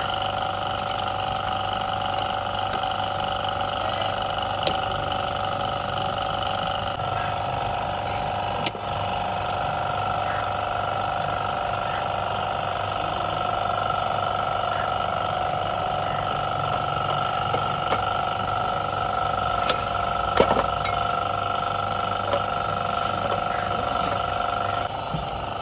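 Pressure washer running steadily, a pump whine over water spray, its pitch shifting slightly about a third of the way in and again near the end, with a few sharp clicks along the way.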